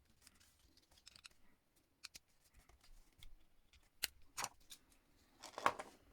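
Faint plastic clicks and scraping as an emergency stop push-button switch is opened up and handled. There are sharp clicks about 2 s in and two near 4 s, then a longer, louder scrape near the end.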